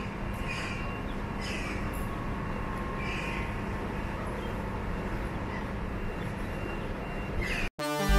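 Railway station platform ambience: electric trains standing and moving at the platforms, with a steady low hum and a few short high squeaks. Near the end the sound cuts out abruptly and theme music begins.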